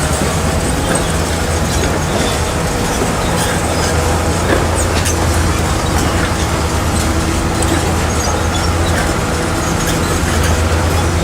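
Crawler bulldozer's diesel engine running steadily under load, with the metallic clanking and squeaking of its steel tracks.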